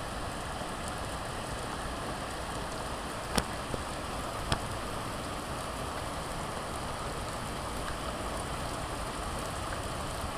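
Heavy rain pouring down steadily, with three sharp ticks a little past three and at four and a half seconds in.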